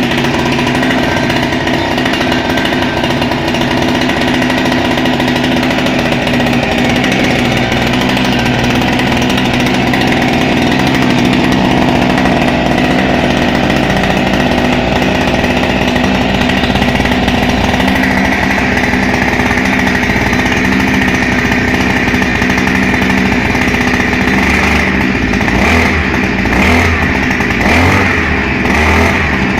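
Small two-stroke brushcutter engine of a TATRA outboard motor running loudly and steadily, shifting pitch about two-thirds of the way through and wavering unevenly near the end.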